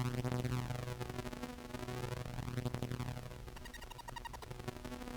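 Contrabass clarinet playing long, low sustained notes through a pedal chain, the Dark World's shimmer octave mode feeding a fully wet spring reverb, which gives a wash of shifting overtones. The notes are held a second or two each, with short breaks. This is a setting the player judges unlikely to help the synth tracking of the low notes.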